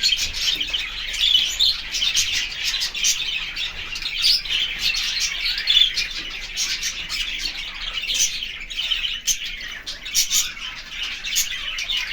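Many small birds chirping at once: a dense, continuous twittering of quick overlapping calls with no pause.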